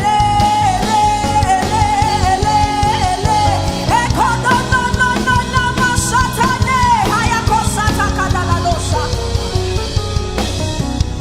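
Gospel worship music from a full band with drums and bass, carrying a long-held, wavering melody line that rises to a higher note about four seconds in and slides back down near the middle.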